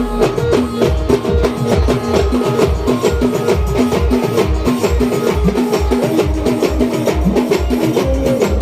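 A Timli band playing dance music: a steady deep drum beat of about three hits a second, with a repeating melody running over it.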